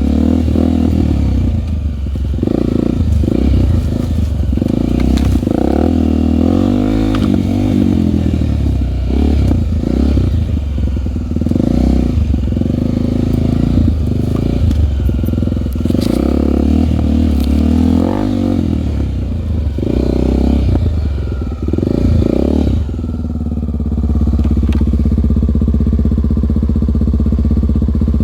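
Honda single-cylinder four-stroke trail motorcycle engine being ridden off-road, revs rising and falling with scattered clattering knocks. About 23 seconds in it settles into a steady idle.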